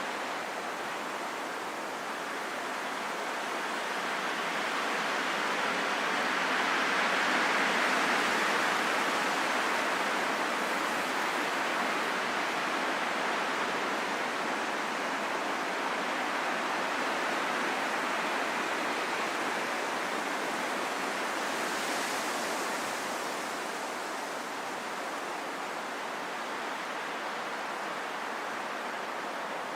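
Steady rushing wind with no tones or gusting howl, swelling gently about a quarter of the way in and easing back.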